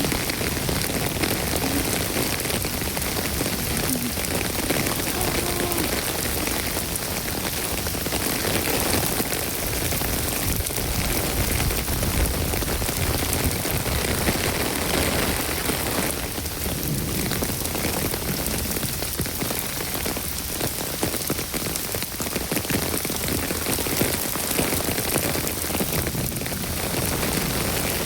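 Steady rain falling: a dense, even hiss of countless drops striking surfaces, with individual drop ticks heard through it.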